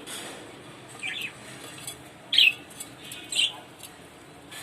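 Aviary birds chirping: three short, high chirps about a second apart over a steady background hiss.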